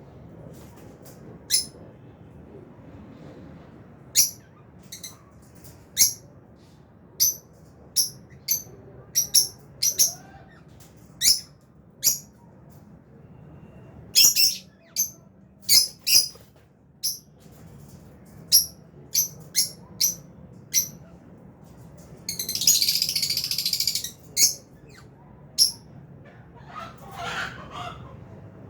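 Lovebirds chirping: short, sharp, high-pitched calls, roughly one a second at irregular spacing, with a longer harsh, hissy burst about two-thirds of the way through.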